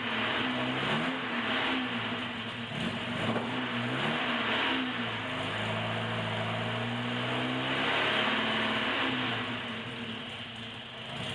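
1976 Alfa Romeo Spider's four-cylinder engine on twin Weber carburettors running cold at half choke, just starting to respond. The revs rise and fall unevenly several times, hold steady for a few seconds around the middle, then settle lower near the end.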